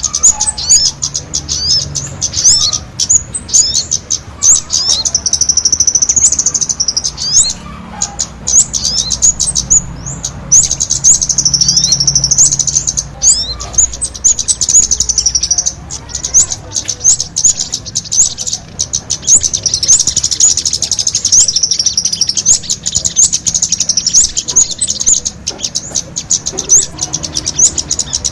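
Recorded lure calls of small songbirds, sogon mixed with kemade: a run of quick high chirps and sweeping notes, broken by long, fast, shrill trills, with a faint low hum beneath.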